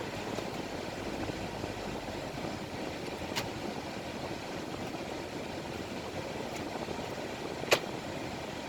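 Nissan VQ35DE 3.5-litre V6 idling steadily, the idle even and not hunting. Two sharp clicks cut through, about three and a half seconds in and again, louder, near the end.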